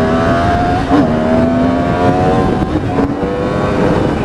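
2016 Yamaha R1S sport bike's inline-four engine at full throttle, accelerating hard with its pitch climbing and dropping at quick upshifts: about a second in, near three seconds in and again just before the end. Wind rushes on the helmet mic throughout.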